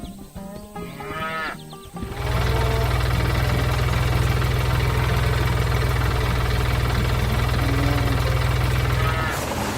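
Short farm-animal calls, then a loud, steady, low mechanical drone that starts about two seconds in and stops near the end.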